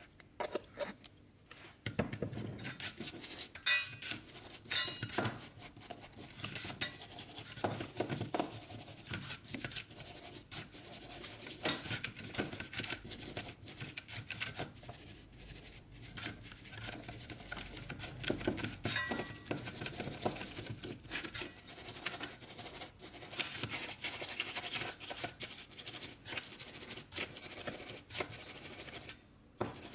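Carburetor parts being scrubbed and handled: steady scraping and rubbing with frequent small metallic clicks and clinks. It starts about two seconds in and pauses briefly near the end.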